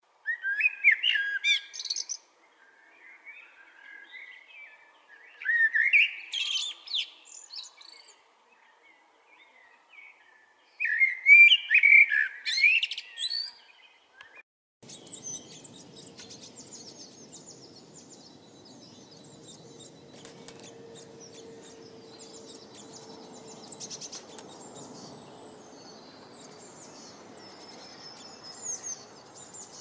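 A songbird singing three loud, warbling phrases a few seconds apart, with softer calls between. Halfway through, the sound changes abruptly to a quieter background of many small birds chirping high over a steady hiss.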